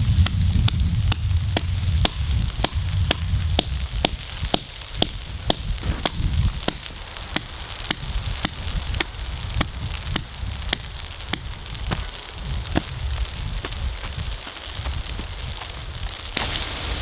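Firewood crackling and popping in a wood-burning stove: sharp pops, two or three a second at first and sparser later, over a low rumble. A hiss like wind noise comes up near the end.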